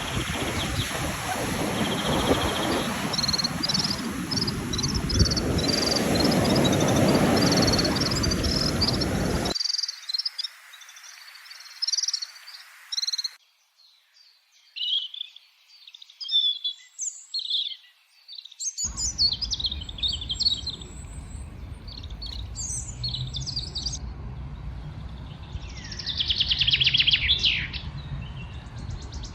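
Small songbirds chirping and trilling in quick, high notes, with a steady noisy rush beneath them for the first nine seconds or so. The background changes abruptly several times, as between separate recordings cut together.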